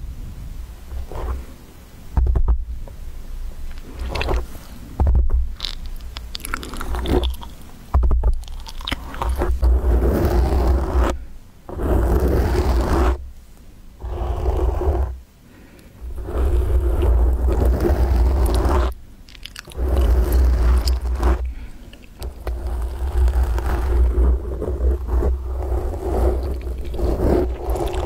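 Fingers grabbing and scratching directly on a microphone: irregular scratchy scraping with a deep handling rumble, in stretches of a few seconds broken by short pauses.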